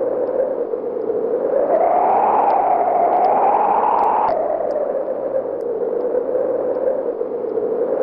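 A steady whooshing noise, like wind, that slowly rises and falls in pitch and drops abruptly about four seconds in.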